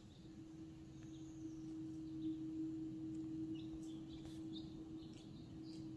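A few faint, short bird chirps, coming more often in the second half, over a steady low hum.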